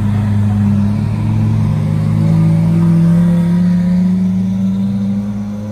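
Lamborghini Aventador's 6.5-litre V12 pulling away at low revs. Its pitch climbs gently as it gets louder about halfway through, then fades as the car drives off, over a steady engine drone.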